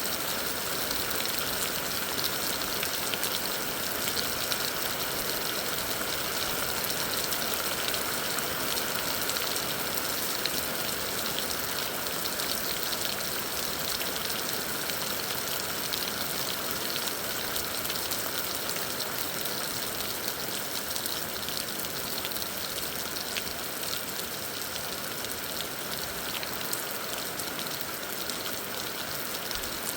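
Heavy rain falling steadily: an even hiss of water, dotted with many small drop hits.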